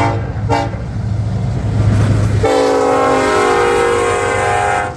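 Air horn of a BNSF SD70ACe diesel locomotive sounding a horn salute: a short toot in the first second, then one long loud blast from about halfway through that cuts off just before the end, over the locomotive's low rumble.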